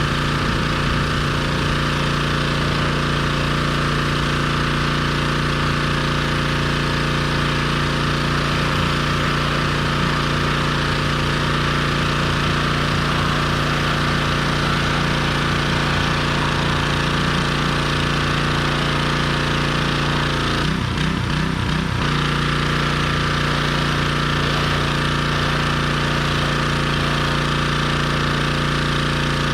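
Gas engine of a pressure washer running steadily at one speed, with a brief stutter a little past two-thirds of the way through before it settles back to the same steady note.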